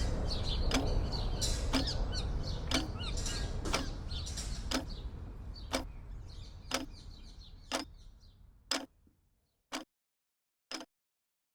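Urban park ambience with birdsong fading out over about nine seconds to silence. A sharp, evenly spaced tick about once a second runs through it and carries on after the fade.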